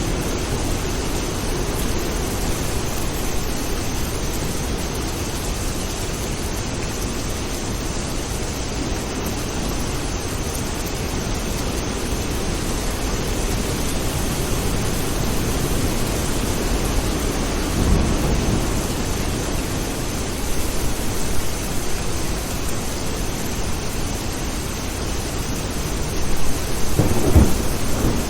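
Thunderstorm: steady rain with a low rumble of thunder beneath it. Louder rolls of thunder swell up about two-thirds of the way through and again near the end.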